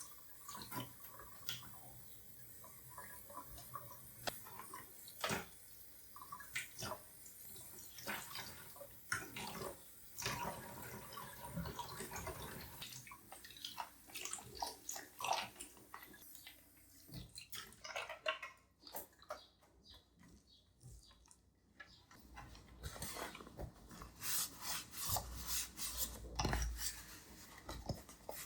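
Dishes and cutlery clinking and clattering as they are handled, with many irregular sharp knocks and a faint sound of water through the first half.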